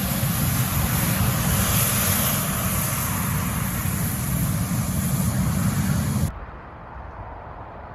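Airliner engines running loudly and steadily, with a high whine over a deep rumble, cutting off suddenly about six seconds in.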